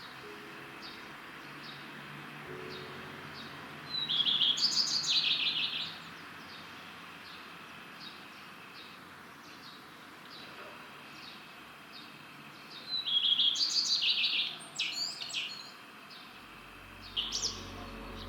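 Common redstart singing: two song phrases, each a thin held opening note running into a fast, jumbled twitter, then a short burst near the end. Faint high chirps repeat about once a second in the background.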